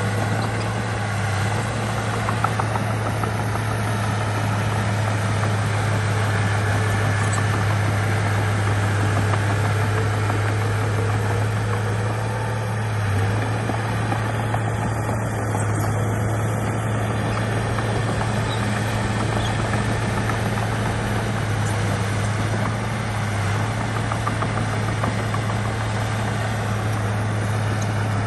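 Bulldozer's diesel engine running steadily, with a strong, unchanging low drone.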